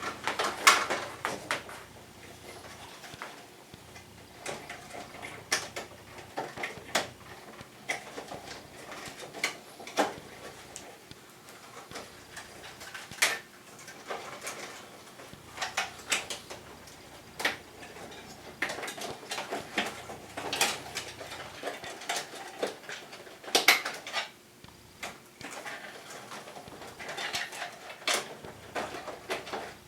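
Irregular clicks and knocks of an air conditioner's plastic parts and fittings being handled, fitted and snapped into place, some sharp and loud, spaced a second or two apart.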